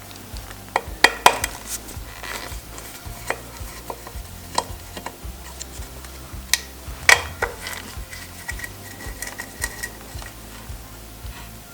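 Hand tools and loose metal parts clinking and clanking in irregular knocks as a dirt bike is taken apart, with the sharpest clanks about a second in and about seven seconds in.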